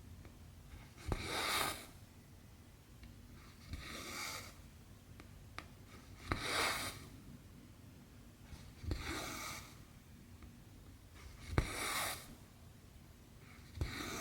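Cotton embroidery thread being drawn through cross stitch fabric, a short rasping pull repeated about six times, roughly every two and a half seconds, some strokes opening with a sharp tick as the needle passes through the cloth.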